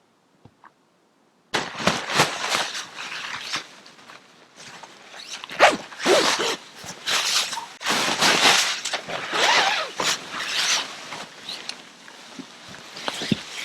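Near silence for about a second and a half, then a run of irregular rustling and crunching noises, like fabric being handled or someone moving about.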